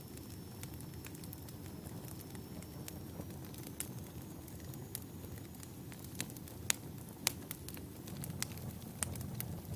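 Wood fire burning in a fireplace: a steady low rumble of flames with scattered sharp crackles and pops from the logs, the two loudest pops a little past halfway.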